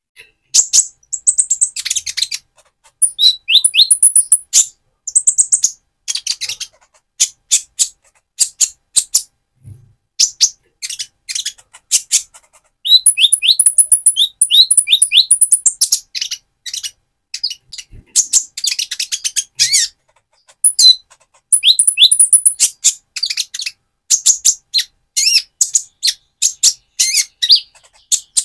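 Young Van Hasselt's sunbird (Leptocoma sperata) singing busily: fast, high twittering with rapid trills and short sliding notes, in bursts separated by brief pauses.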